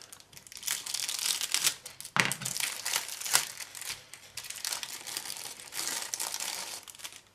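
Plastic bag of model-kit sprues crinkling and rustling as it is handled, with irregular sharp crackles.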